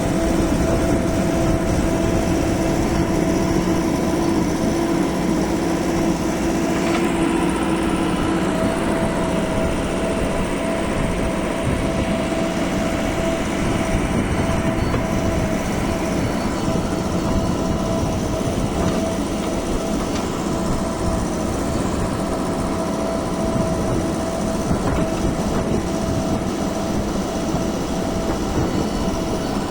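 Diesel engines of a JCB 3DX backhoe loader and tractors running steadily while mud is loaded, with a steady tone that steps up in pitch about 8 seconds in.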